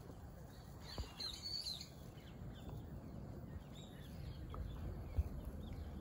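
Small birds chirping in short high calls, loudest in a cluster about a second in and fainter after that, over a low outdoor rumble with a couple of faint knocks.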